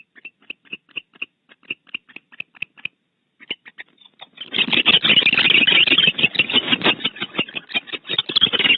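Barn owls in the nest cavity: a run of quick clicks, about five a second, then from about four and a half seconds a loud, harsh, rasping noise.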